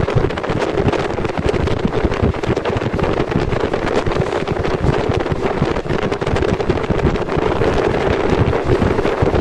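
Wind buffeting the microphone over the steady running noise of a passenger train at speed.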